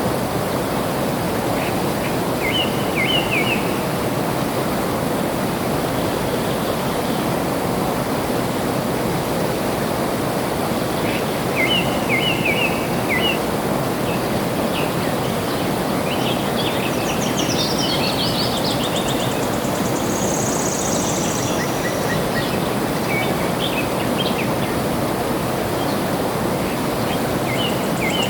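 Steady rush of flowing water with birds singing over it: short chirping phrases about two seconds in and again around twelve seconds, then a busier run of chirps and a high trill in the second half.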